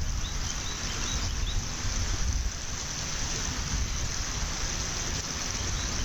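Wind rushing and buffeting against an outdoor nest-camera microphone, steady throughout. A faint run of about five short, high chirps from a bird sounds in the first second and a half.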